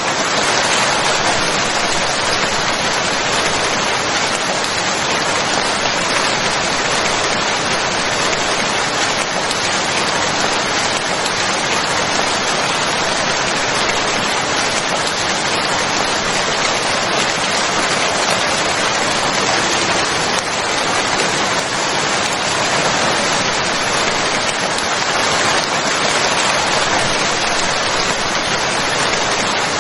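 Steady heavy rain falling, a dense even hiss of drops on surfaces without pauses or thunder.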